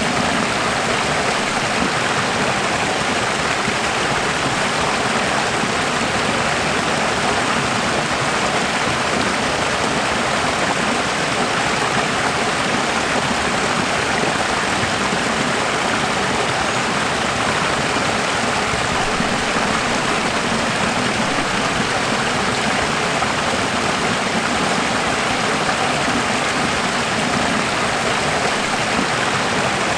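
Running water: a steady, even rush of flowing water with no change.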